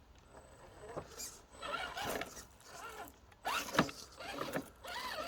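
The electric drive motor of an FTX Hi-Rock RC rock crawler whines, its pitch rising and falling with the throttle as it climbs over rocks. A few sharp knocks come from the chassis and tyres against the rock, the loudest a little under four seconds in.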